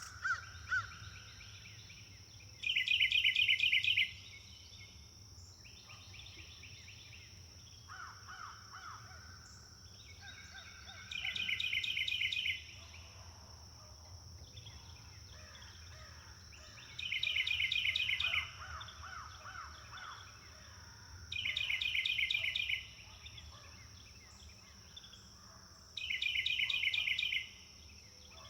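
Wild birds singing: one bird repeats a loud, fast trilled phrase about 1.5 seconds long five times, roughly every five seconds, with softer calls from other birds between. A steady high hiss runs underneath.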